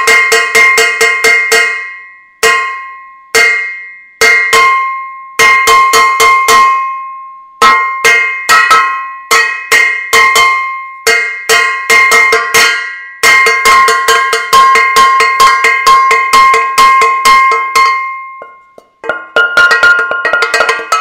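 A metal saucepan being banged repeatedly, in runs of quick ringing strikes broken by short pauses. Near the end, after a brief gap, the strikes take on a different, higher ring.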